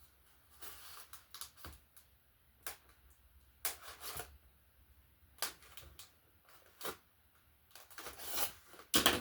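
Cardboard shipping box being cut open and handled: irregular scrapes, taps and rustles of cardboard and packing tape, with a louder flurry near the end.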